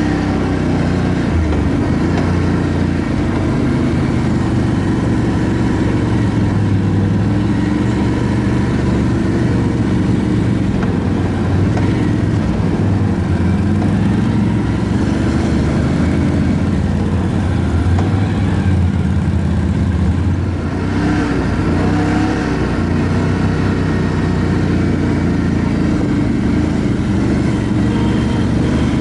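ATV engine running under way, its pitch rising and falling with the throttle, with wind and trail noise.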